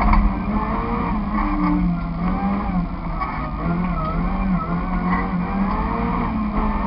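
Nissan Micra 1.3's four-cylinder petrol engine, heard from inside the cabin while driven hard. Its pitch rises and falls as the driver accelerates, lifts and changes gear.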